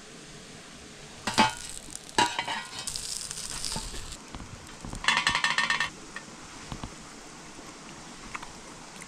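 Food sizzling as it cooks over a campfire: a steady sizzle, broken by a few louder crackling bursts.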